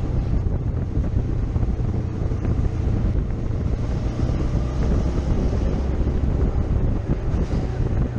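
Motorcycle on the move: engine running steadily under loud wind buffeting on the microphone.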